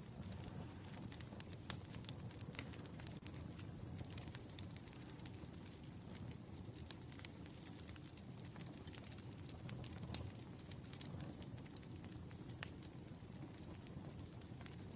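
Firewood burning: a steady low rumble of flames with scattered sharp crackles and a couple of louder pops.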